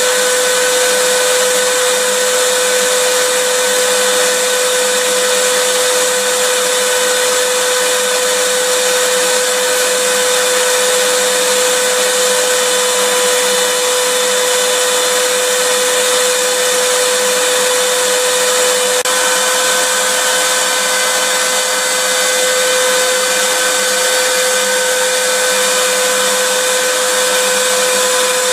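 Vacuum cleaner running steadily: a constant motor whine over a hiss of rushing air, with a very slight step in pitch about two-thirds of the way through.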